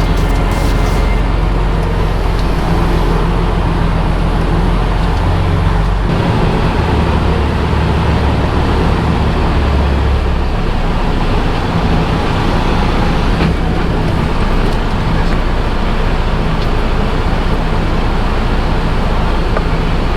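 Semi-truck diesel engine running under load, its revs climbing about five seconds in, holding for several seconds and then dropping back, as the truck struggles for grip in deep mud.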